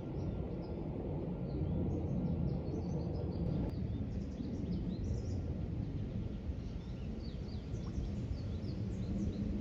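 Outdoor ambience with a steady low rumble and small birds chirping many short, high notes, thickest in the middle and again near the end.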